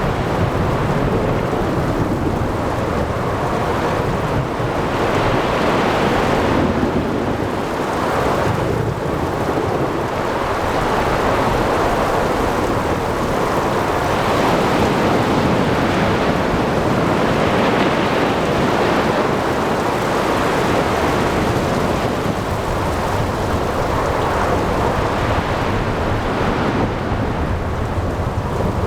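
Ocean thunderstorm: a steady wash of rain, wind and waves, with thunder rumbling and swelling every few seconds.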